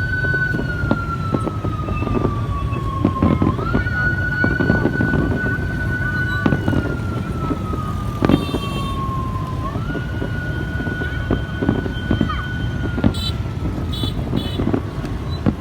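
A siren wailing in a slow cycle: a high tone holds, sinks over a few seconds, then jumps quickly back up, about every six seconds. Underneath are a steady low rumble and scattered short pops.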